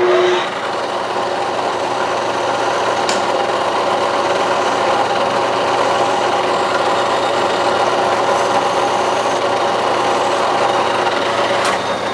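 Clausing Colchester metal lathe running at raised spindle speed, with a steady rasping of a file or abrasive worked by hand against the spinning steel part to break its edges.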